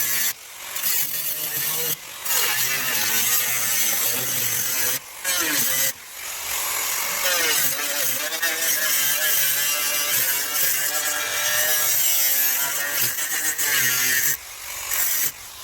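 Angle grinder with a cut-off disc cutting through car body sheet metal, the motor's pitch wavering as it loads up in the cut, with several short breaks where the disc is lifted off.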